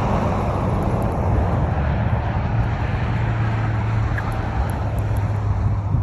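Vehicle engine running steadily, a constant low hum under a rumble of engine and road noise.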